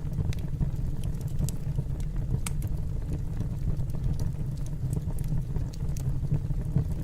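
Wood fire burning in a fireplace: a steady low rumble with scattered sharp crackles and pops, the loudest about two and a half seconds in.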